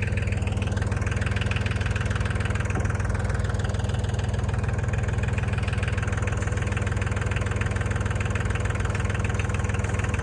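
Tractor engine running steadily at a low, even speed while it handles a large hay bale.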